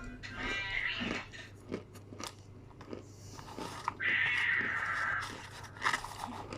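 Hard, dried cornflour (cornstarch) chunks being bitten and chewed, crunching with many short sharp cracks and a longer, louder crunch partway through.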